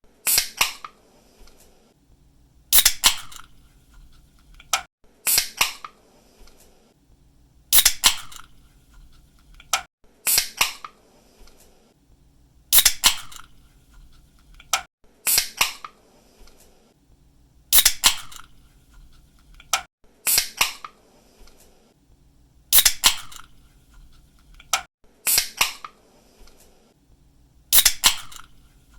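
Aluminium drink can's pull tab cracking open with a sharp snap, repeated at an even pace about every two and a half seconds, around a dozen times.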